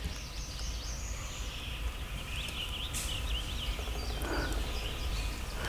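Woodland ambience with small songbirds chirping in short rising and falling phrases, and one sharp click about three seconds in.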